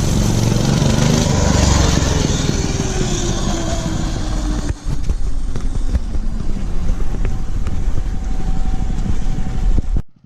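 Mega Moto 212cc minibike's small single-cylinder engine running as it is ridden, its pitch falling over the first few seconds, then running on steadily. The sound cuts off abruptly near the end.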